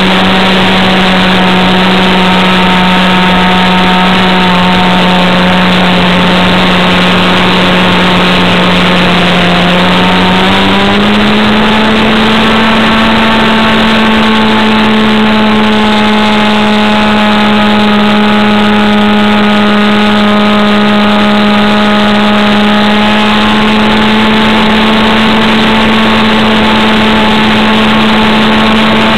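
Avistar 53 two-stroke model-airplane engine running at a steady high pitch. It rises slightly about ten seconds in and holds the higher note.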